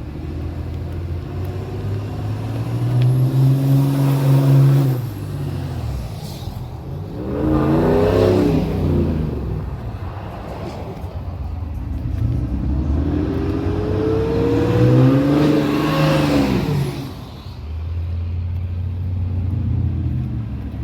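Ram pickup trucks pulling out one after another and driving past, engine sound swelling as each one nears and fading away. There are three main passes, about four, eight and fifteen seconds in.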